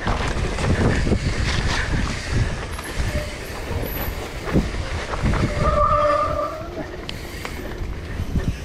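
Mountain bike rattling and clattering down a rough dirt downhill trail, tyres rumbling and the frame and chain knocking over bumps, with a brief high squeal about six seconds in that is typical of disc brakes under braking.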